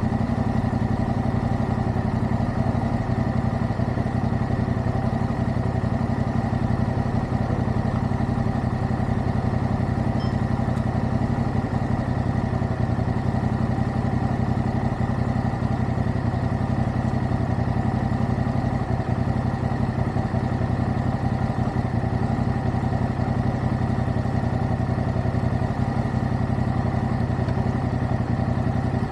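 Motorcycle engine running steadily at one unchanging pitch, with no revving.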